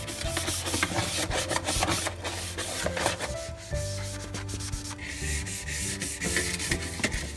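Quick, irregular scrubbing strokes, a surface being rubbed clean, getting denser and hissier about five seconds in, over soft background music.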